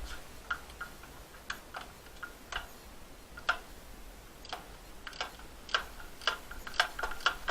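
Sharp metallic clicks and clinks at irregular intervals, about one or two a second, some with a brief ring, typical of hand tools working on metal engine parts.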